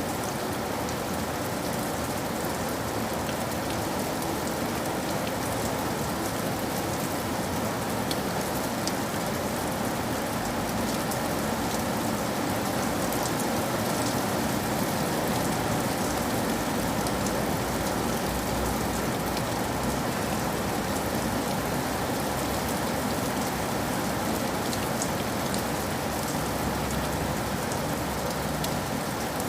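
Steady rain falling on a surface, an even hiss with scattered fine drop ticks, swelling slightly in the middle.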